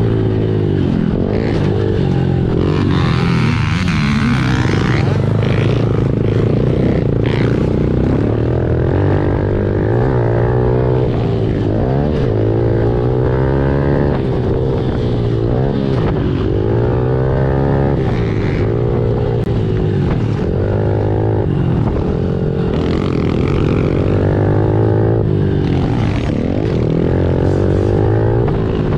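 Honda CRF110F pit bike's small single-cylinder four-stroke engine being ridden hard, revving up and falling back again and again as the throttle is opened and closed.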